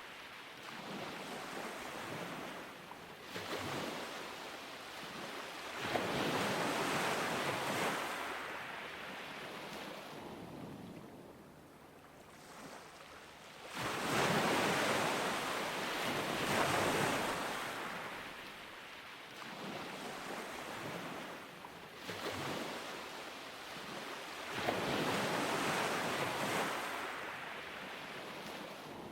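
Ocean surf breaking on a beach, a rushing wash that swells and fades in slow surges, three larger waves with softer washes between.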